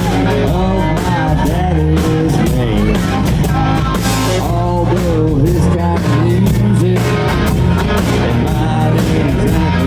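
Rock music: a melodic lead line, guitar or voice, over steady bass and drums at a constant loud level.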